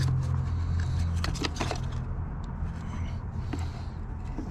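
A few light clicks and knocks as a cover is fitted into place in the engine bay, over a steady low machine hum.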